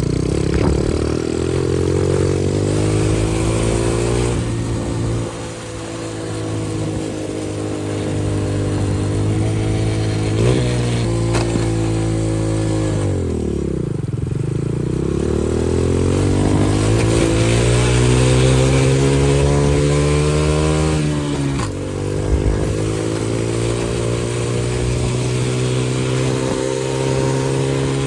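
125cc single-cylinder dirt bike engine under riding load, revving up through the gears: its pitch climbs steadily, drops sharply at shifts or when the throttle is closed, about five seconds in, near the middle and about three-quarters through, then climbs again.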